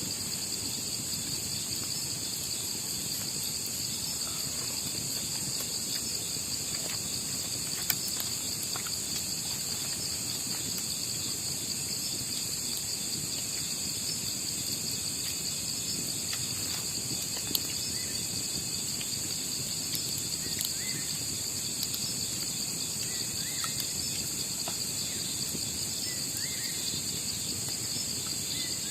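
Insect chorus of crickets trilling steadily in several high pitches over a low, even background rush. Two sharp clicks come about eight and seventeen seconds in.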